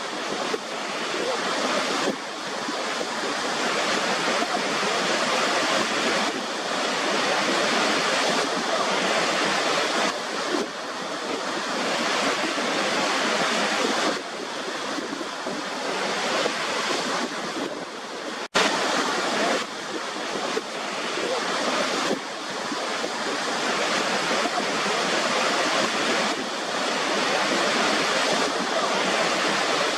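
Steady rushing of falling water, swelling and easing a little, with a split-second dropout about two-thirds of the way through.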